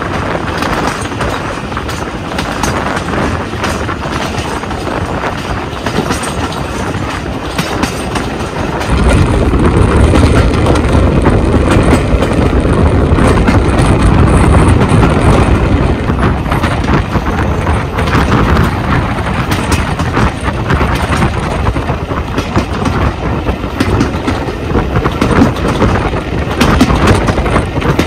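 Jacobite steam train's coaches running along the track: steady rumble and rattle of wheels on rail, heard through a carriage window. The rumble grows louder and deeper about nine seconds in.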